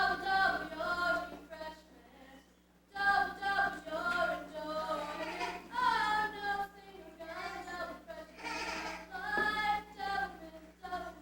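Voices singing a song, with a short break about two seconds in.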